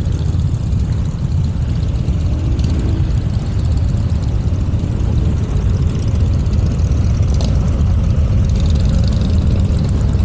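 Motorcycle engines running in a steady, deep rumble.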